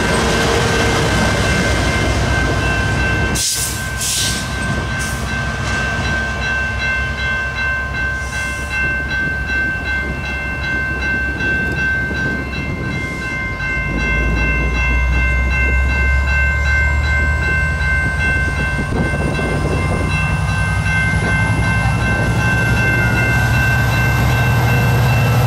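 Level-crossing warning bells ringing steadily while the diesel locomotive at the rear of a commuter train runs past and away. From about halfway through, a deep rumble builds as another train approaches the crossing.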